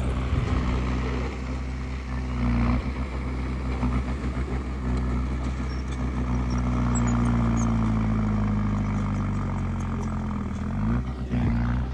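Diesel engine of heavy earthmoving machinery running steadily, its pitch sagging a little and then rising again near the end.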